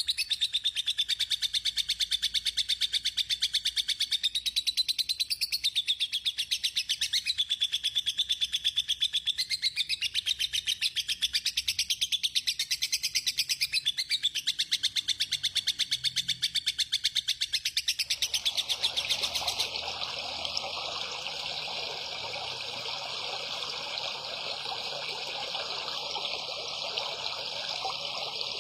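A songbird singing one long, fast trill of rapidly repeated high-pitched notes, wavering up and down in pitch. About two-thirds of the way in the song stops and a steady trickling water sound takes over.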